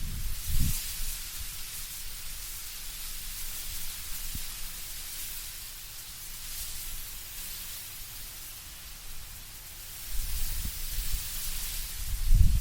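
Wind blowing through autumn trees, the leaves rustling in a soft, hissing wash that swells in gusts. A low rumble comes in about ten seconds in as the wind picks up.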